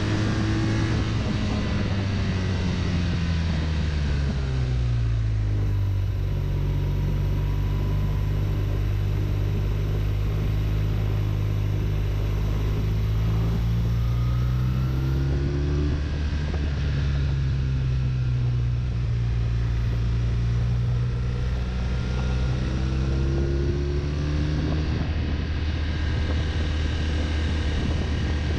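A BMW RT touring motorcycle's boxer-twin engine running on the move, with a steady rush of wind and road noise. The engine note falls over the first few seconds as the bike slows, holds level, then climbs twice under acceleration, dropping back after each climb.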